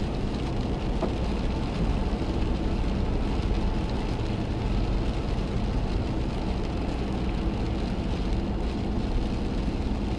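Steady low rumble of a car's engine and road noise, picked up by a dashcam microphone inside the vehicle.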